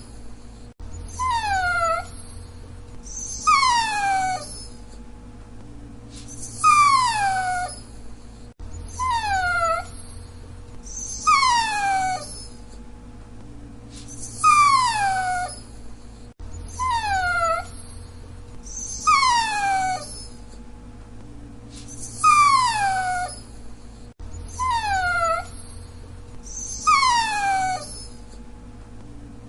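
Dachshund whining: high calls that fall in pitch, each about a second long, repeated every two to three seconds over a faint steady hum.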